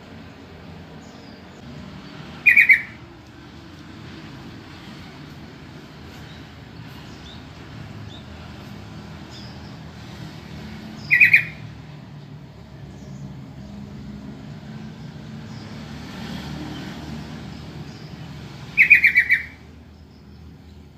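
Sooty-headed bulbul (trucukan) giving its call three times, about eight seconds apart. Each call is a short, loud run of quick notes, the last a little longer, over a steady low background rumble.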